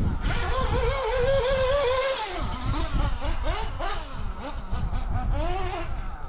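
Small nitro RC engine running and revving, its high whine rising and falling again and again as the throttle changes.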